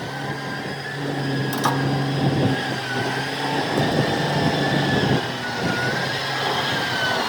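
An engine running steadily at idle, with a faint wavering whine above it. Its low hum eases off about five seconds in, and there is a single sharp click partway through.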